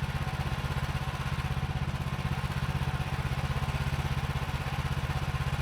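Small gasoline engine of a Woodland Mills HM130 MAX portable sawmill running steadily, a rapid low putter.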